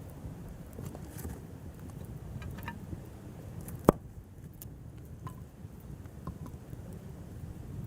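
Wood campfire crackling: scattered small pops and snaps over a low steady rumble, with one sharp, loud pop about four seconds in.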